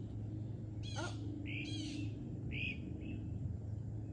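Birds calling: several harsh, rasping calls, about one a second, over a steady low hum.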